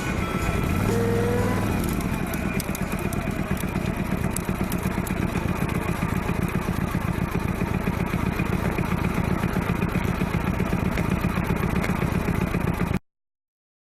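Motorcycle engine running steadily under way, with a fast even low beat and road and wind noise; it cuts off suddenly near the end.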